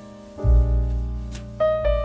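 Slow classical piano music: a deep bass chord struck about half a second in and left to ring and fade, then a higher note near the end.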